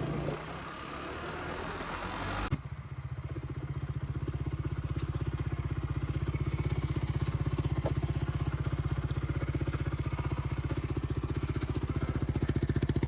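Suzuki GSX-R sportbike engine, first under a rush of wind and riding noise. About two and a half seconds in, the sound changes abruptly to the engine idling with a steady, even putter.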